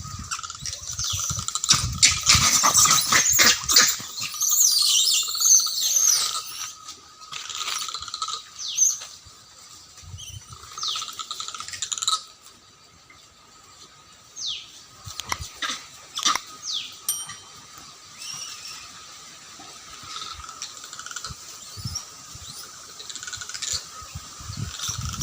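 Monkeys shrieking and squealing in a fight, a dense burst of overlapping screams over the first few seconds, then scattered short, sharp falling shrieks. A steady high tone runs underneath.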